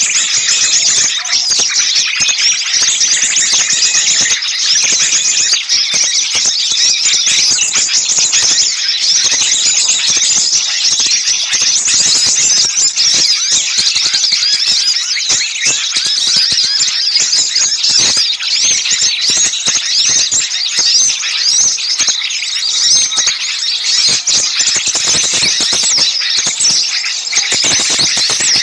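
Dense, unbroken chorus of many small songbirds chirping and twittering at a high pitch, all at once: a mixed small-bird lure call recording of the agitated, alarm-like kind that bird-catchers play to draw birds in.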